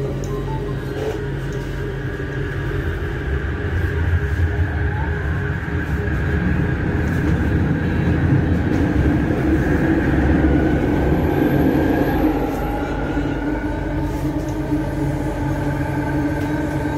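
Metro train heard from inside the carriage as it pulls out of a station and picks up speed: a steady run of motor hum and wheel-on-rail noise. It grows louder over the first several seconds and eases a little after about twelve seconds.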